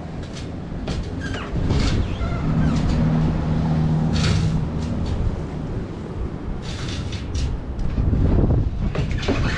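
A motor vehicle running, a continuous low rumble with wind noise over it; a steady low hum stands out for a couple of seconds about a third of the way in.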